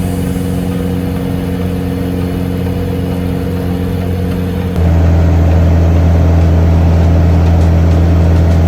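Lycoming O-360 four-cylinder air-cooled aircraft engine running steadily, with a sudden step up in loudness about five seconds in.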